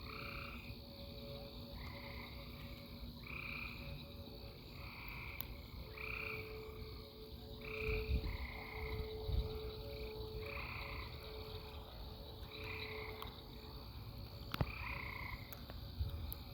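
A chorus of frogs calling, short trilled calls repeating about once a second. A faint, steady, distant siren tone swells and fades through the middle.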